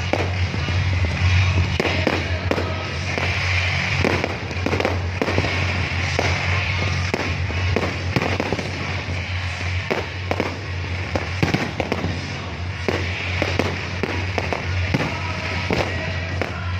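Fireworks display: a steady run of irregular bangs and crackles, often several a second, over a continuous background of music.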